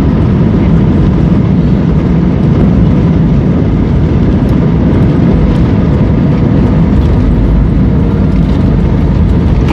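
Steady, loud low rumble of an airliner heard from inside the cabin: engine and airflow noise during the landing.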